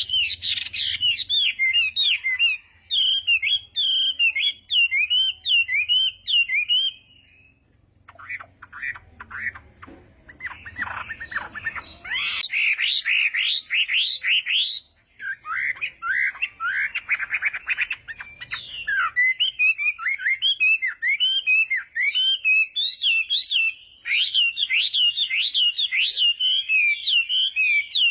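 Chinese hwamei singing a long, rapid song of varied whistled notes, with a short pause about seven seconds in and another around fifteen seconds, and a stretch of quick stuttering notes between them.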